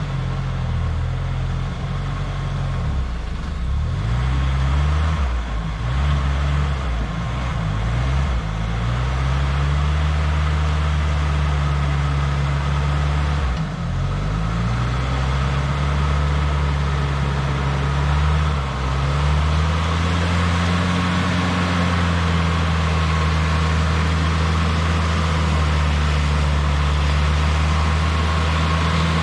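Jeep engine running under load in mud, its revs rising and falling repeatedly, then holding steady for the last ten seconds or so.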